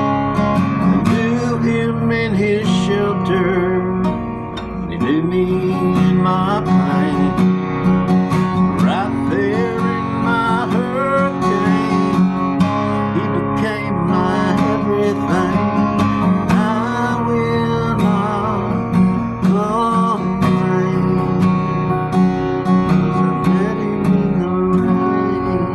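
Instrumental end of a song: acoustic guitar strumming chords, with a melody line above that bends and wavers in pitch.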